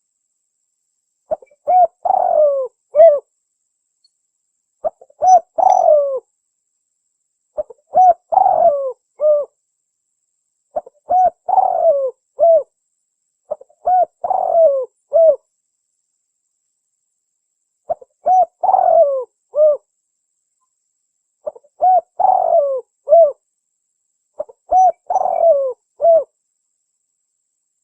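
Spotted dove (tekukur) cooing: about eight phrases of several short hooting notes, each phrase repeated every three seconds or so, with dead silence between them.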